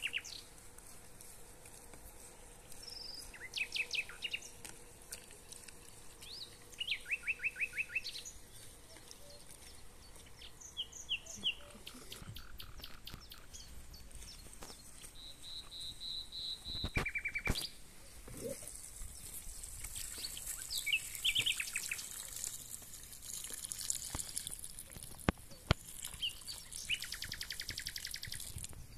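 Songbirds singing: short trills and quick runs of repeated chirps, coming and going throughout, with a faint hiss in the second half.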